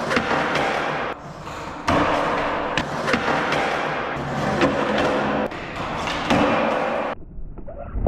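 Skateboard wheels rolling and grinding on concrete, with sharp clacks and thuds of the board. The sound cuts abruptly between several short takes, and after about seven seconds it turns duller and quieter, with a few knocks.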